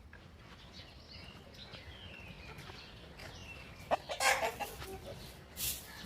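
Chickens clucking, with faint high calls through the first few seconds and a louder cluck about four seconds in. Short scratchy rustles come near the end.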